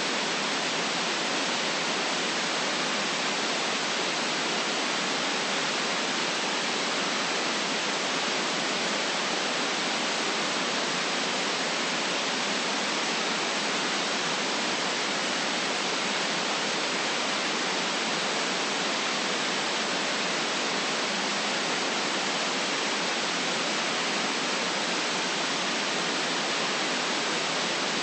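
Steady white noise for sleep: an even, unbroken hiss with little deep rumble and no change over time.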